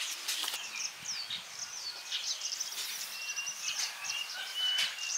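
Small birds chirping and twittering in many quick high notes. In the second half a run of short, steady whistled notes repeats, with a few soft clicks between.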